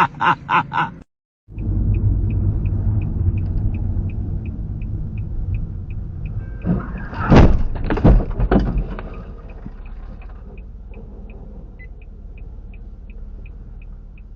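A steady low rumble of a vehicle, with a regular light ticking about twice a second and a few loud, sharp sounds about seven to nine seconds in.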